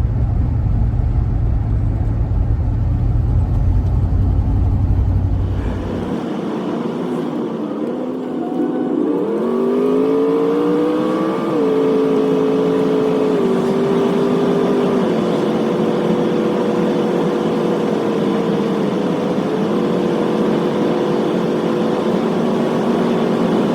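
GMC van driving, heard from the cab: a low road rumble for the first six seconds, then the engine note rises as the van accelerates, drops at a gear change about eleven seconds in, and holds fairly steady while cruising.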